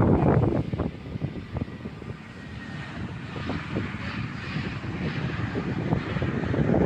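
Jet airliner engines, a rushing roar with a hiss that grows steadily louder as the aircraft approaches. Wind buffets the microphone briefly at the start.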